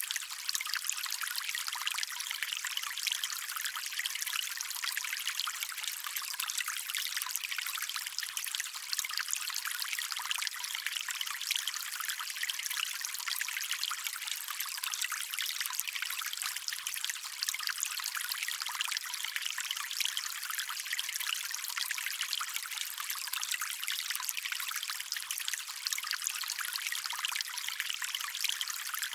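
Small stream of water trickling steadily, a constant bright hiss of running water with no low rumble.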